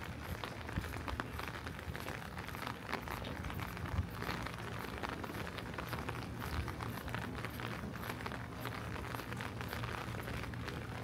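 Steady rain falling, a constant hiss of many small drop ticks over a low rumble.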